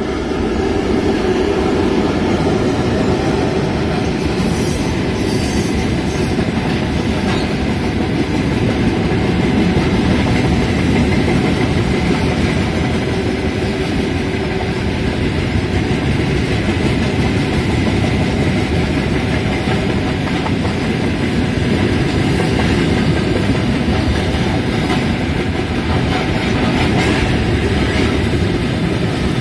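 Freight train of tank cars rolling past at close range, a steady, loud rumble of steel wheels on the rails, with the 2TE116 diesel locomotive that hauls it going by at the start.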